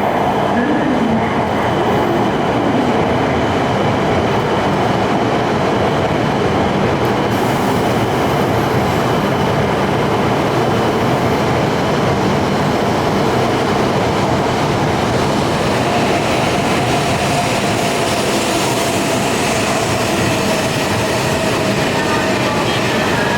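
E5-series Shinkansen train running slowly into the platform, a steady loud rumble of wheels and running gear with some wheel squeal. A faint steady whine joins about two-thirds of the way through.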